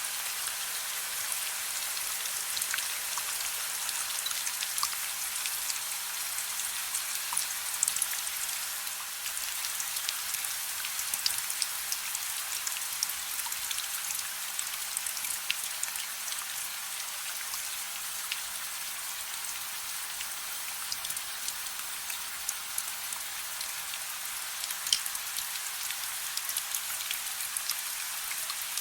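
Steady soft rain: an even hiss of falling rain with many small drop ticks scattered through it.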